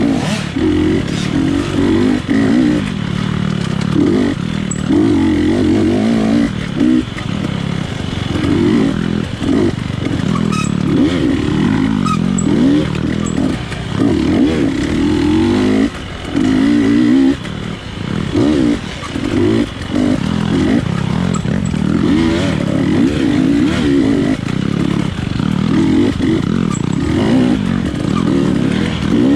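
GasGas 250 dirt bike engine revving up and down over and over under hard riding, with many short throttle cuts between bursts of revs.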